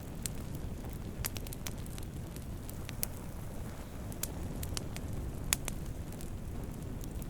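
Wood campfire burning, a steady low rumble of flames with irregular sharp crackles and pops, the loudest pop about five and a half seconds in.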